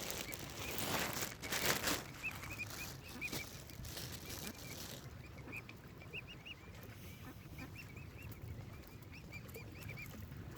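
Mute swan cygnet peeping: runs of short, high, arched peeps repeating throughout. A loud rush of noise covers the first two seconds.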